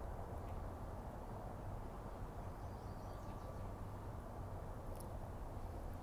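Steady low outdoor rumble with a few faint high chirps about halfway through and a brief click near the end.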